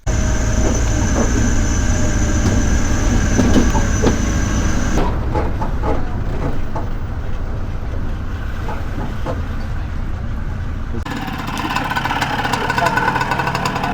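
A vehicle engine runs with a loud, steady low rumble and road or water noise over it. The sound changes abruptly about five seconds in and again about eleven seconds in, as separate clips are cut together.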